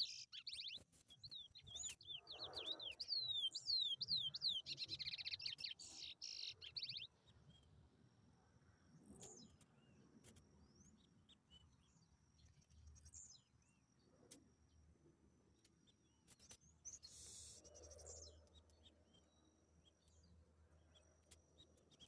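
Chestnut-bellied seed finch (curió) singing a Paraense-type song: a fast run of clear whistled notes that slide up and down, loud for about the first seven seconds, then only faint scattered chirps.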